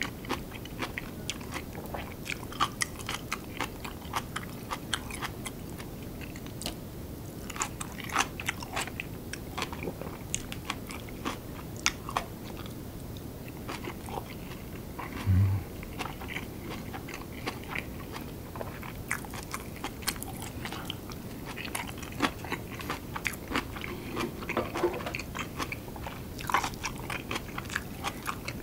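Close-miked ASMR chewing and biting of kimchi and curry rice: crunchy bites and wet mouth clicks all through. A brief low thump comes about halfway.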